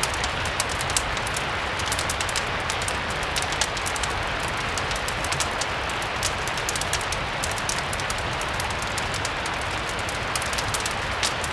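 Steady rain mixed with a crackling fire: an even hiss of rain with many small, sharp crackles scattered through it, over a low rumble.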